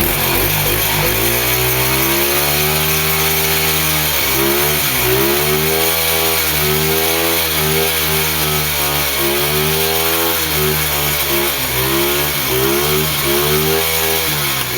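110cc pit bike's single-cylinder four-stroke engine revved hard and held high during a burnout, its pitch dipping and climbing back several times as the rear tyre spins.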